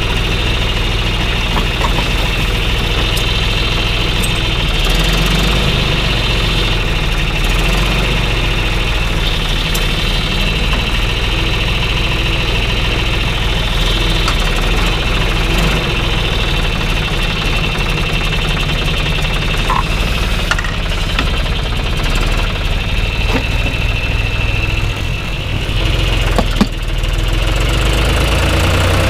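Tractor diesel engine running steadily while ploughing, with a brief dip in loudness near the end.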